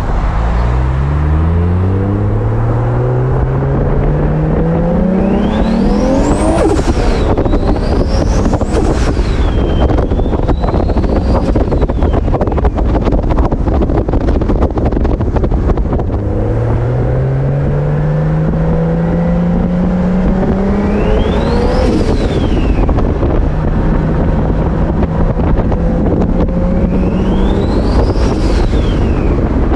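Big-turbo, 2JZ-swapped Toyota Supra engine pulling hard, its pitch climbing through each gear. The turbo's whine rises to a high whistle at the top of each pull and then falls away, several times over. Heavy wind noise on the microphone throughout.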